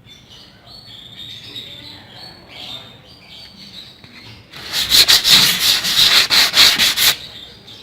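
400-grit sandpaper rubbed by hand over a varnished wooden cabinet surface: a fast run of rasping strokes, about four a second, that starts about halfway through and stops shortly before the end, with one more stroke at the very end. This light sanding in one direction keys the old finish for new varnish.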